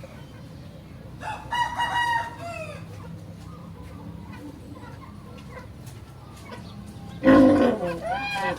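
A rooster crowing twice, each crow held and then falling away in pitch, the second louder near the end, over a steady low hum.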